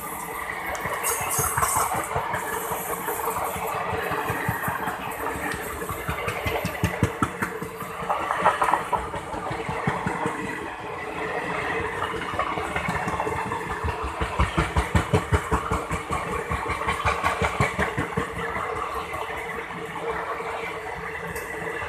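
Indian Railways express train running close by: a steady mechanical hum with rapid, regular thumping of wheels over rail joints, strongest a little past the middle.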